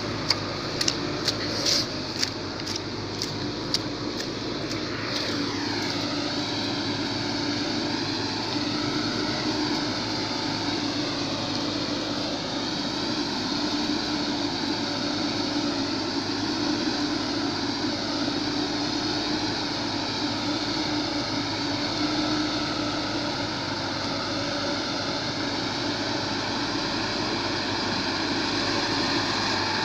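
Vehicle engine running steadily while driving, with its pitch dropping about five seconds in. A series of sharp clicks comes in the first few seconds.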